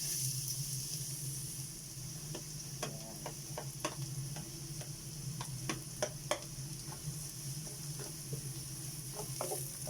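Garlic sizzling in hot cooking oil in a pan as it is sautéed and stirred, with a utensil clicking and scraping against the pan every so often.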